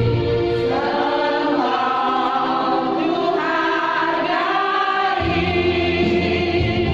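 Choir singing a sustained passage in several parts; the lowest part falls away about half a second in and comes back after about five seconds.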